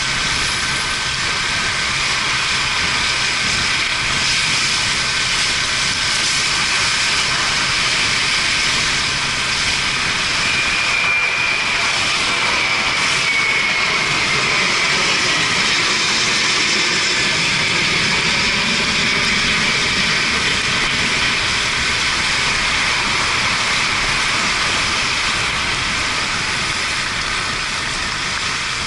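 Yamaha Fazer 250 motorcycle under way on a wet road: a steady rush of wind and road noise with its single-cylinder engine running, its pitch shifting around the middle.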